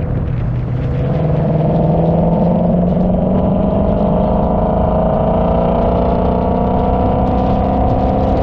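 A car engine pulling steadily, its pitch climbing slowly from about a second in and then holding level, over a constant low rumble.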